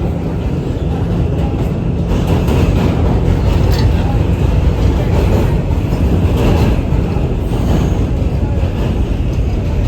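R211 subway train running along the track, a steady rumble and rattle of wheels and car body.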